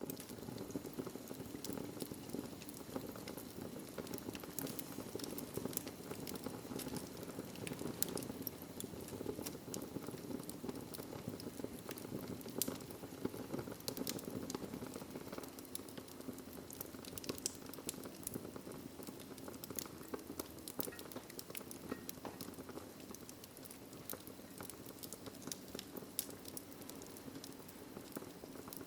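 Wood fire in a fireplace crackling: a steady low rush of flames with frequent sharp pops and snaps of burning logs.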